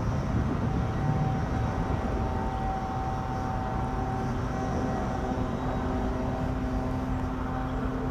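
Distant train locomotive approaching: a steady low rumble with a faint steady whine.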